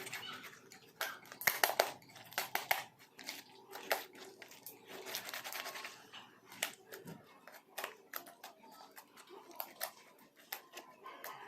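Soft slime being squeezed and pressed by hand, its trapped air bubbles popping in a string of irregular sharp clicks and crackles.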